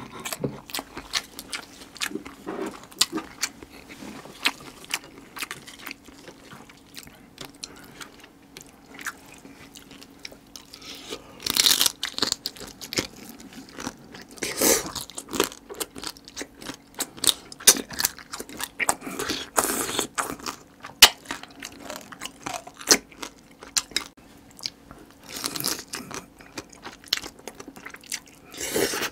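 Close-miked chewing and crunching of spicy marinated stone crab (yangnyeom gejang): many sharp cracks of crab shell between the teeth, with a few longer, louder wet bursts every few seconds.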